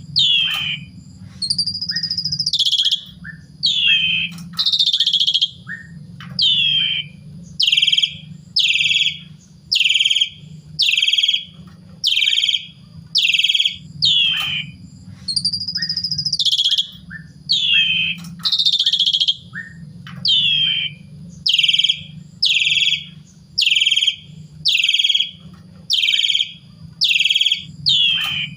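Asian pied starling (jalak suren) singing: loud, clear notes about once a second, most sweeping down in pitch, with a few longer looping whistles and softer short chirps in between. A steady low hum runs underneath.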